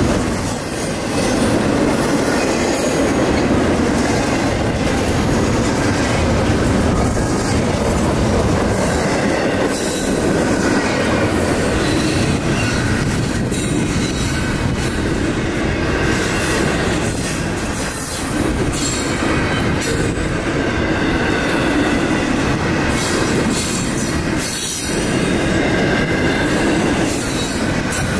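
A train's cars rolling steadily past on the rails, with a faint wheel squeal and irregular clicks and clacks of wheels over the rail joints.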